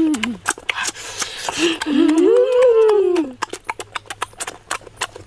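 A boy eating cooked octopus, chewing with many quick lip-smacking clicks. About two seconds in comes a drawn-out hummed 'mmm' that rises and falls in pitch.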